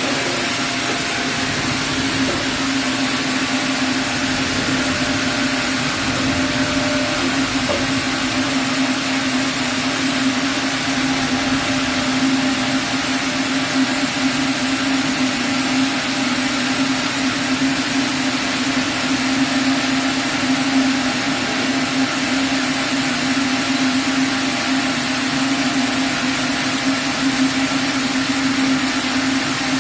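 Sawmill band saw running steadily through a chinaberry log: a constant loud machine hum with a high, even hiss that holds unchanged throughout.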